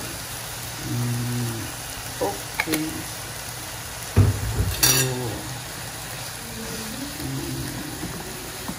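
Beef steaks with carrot and onion sizzling steadily in a hot frying pan as a sauce is poured over them, with a few sharp knocks about two to five seconds in. A wooden spatula stirs and scrapes the pan near the end.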